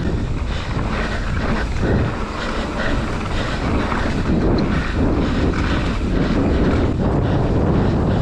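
Wind buffeting the camera microphone of a mountain bike riding down a trail, with tyre noise and scattered rattles and knocks from the bike over rough ground.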